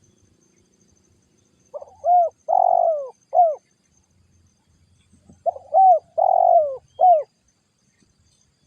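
Spotted dove cooing: two phrases of about four notes each, a short note, a long drawn note and a closing note, with a pause of about two seconds between the phrases.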